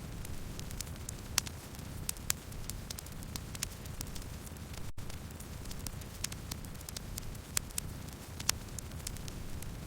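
Campfire burning: a steady low rumble of flames with irregular sharp crackles and pops from the burning wood, and a split-second dropout about halfway through.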